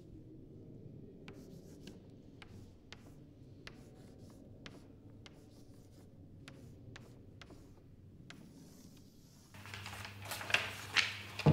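Chalk writing on a blackboard: faint, irregular scratches and taps of the chalk stick against the board. Near the end, a louder hiss with sharp clicks comes in.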